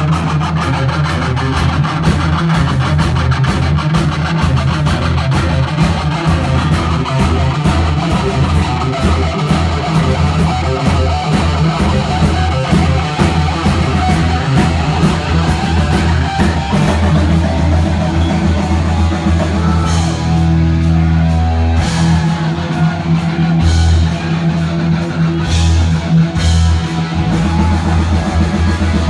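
Heavy metal band playing live and loud: distorted electric guitar, bass and a drum kit pounding out a fast, dense beat in an instrumental. About two-thirds through, the rapid drumming gives way to sparser, heavier hits for several seconds before picking up again.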